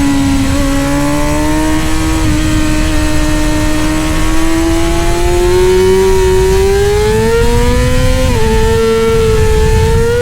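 Middleweight superbike engine pulling hard at high revs. Its pitch climbs slowly through one long gear, drops sharply at an upshift about eight seconds in, then climbs again.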